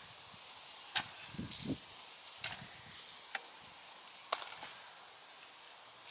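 Loose garden soil and sweet potato vines being dug through by hand: scattered scrapes and about half a dozen sharp clicks and snaps, over a faint steady hiss.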